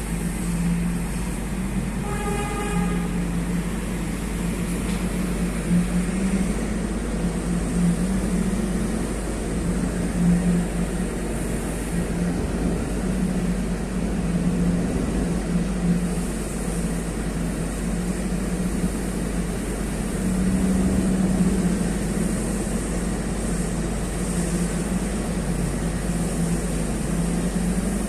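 Heavy dump truck diesel engine running with a steady low drone. A horn sounds briefly about two seconds in.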